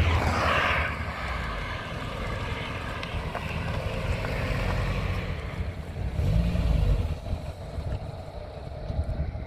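Peugeot 405 car engine running and revving, with a noisy rush in the first second and a rise and fall in engine pitch about six seconds in.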